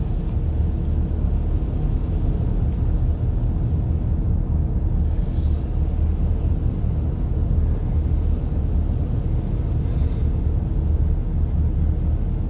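Steady low rumble of a car driving, heard from inside the cabin: engine and tyre noise on the road. A brief hiss about five seconds in.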